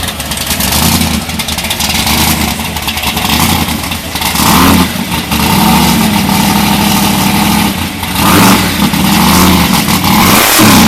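A loud engine running and revving, its pitch rising and falling several times.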